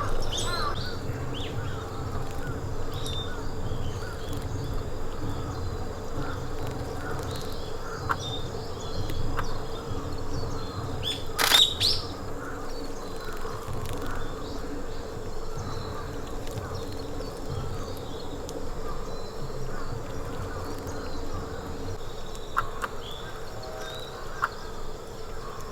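Forest ambience: scattered faint bird chirps over a steady low rumble and a faint steady hum. One sharp, short, loud sound comes about eleven and a half seconds in.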